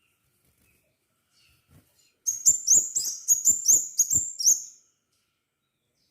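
Crimson sunbird song: a quick, high-pitched run of about ten sharp chirps lasting a little over two seconds, starting about two seconds in.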